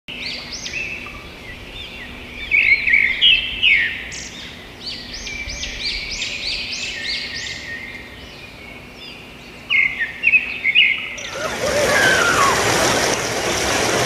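Birds chirping in quick, repeated, high arching notes, in bursts. About eleven seconds in, a steady rush of falling water from a small waterfall takes over.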